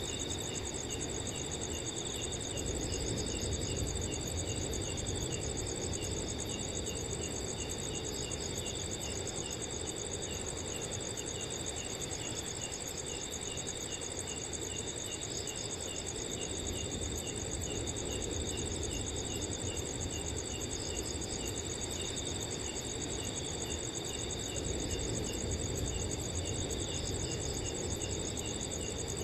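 Several crickets trill at once at different pitches, one of them chirping steadily about three times a second, over a low, even rush of wind.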